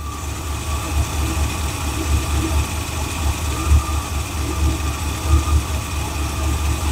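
Carbureted small-block Chevy V8 idling steadily with a low, pulsing rumble. The owner suspects junk in the carburetor's float bowl, which made it stall and not restart.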